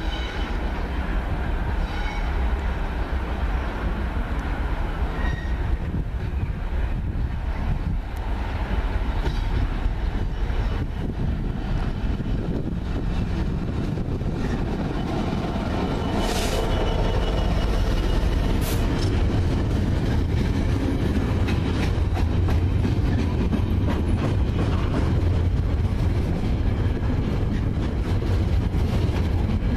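Class 66 diesel-electric freight locomotive with its EMD two-stroke V12 engine running as it hauls a train of box wagons past, followed by the wagons rumbling and clattering over the junction's points. The rumble grows louder about halfway through, and two brief sharp noises come from the wheels around the same point.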